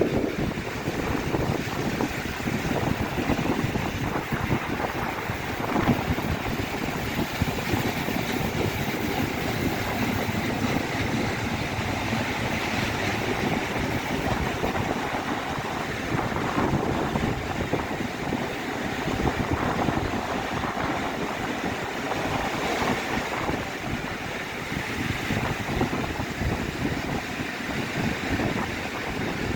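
Steady rumble and rush of a moving train, with wind buffeting the microphone.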